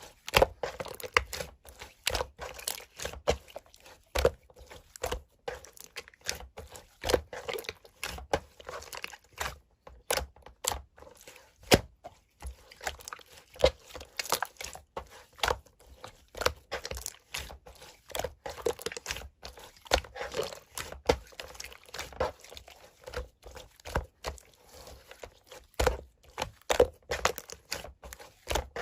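Blue slime being squeezed, pressed and stretched by hand, giving a steady run of irregular sticky pops and clicks, about two or three a second.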